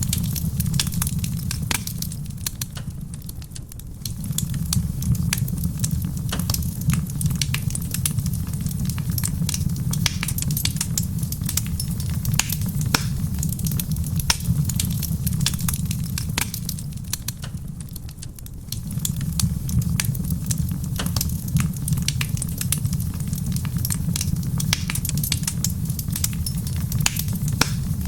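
Wood fire crackling in a stone fireplace, with frequent sharp pops and snaps over a steady low rumble and soft rain on a roof. The sound dips briefly twice, once near 4 seconds and again near 18 seconds.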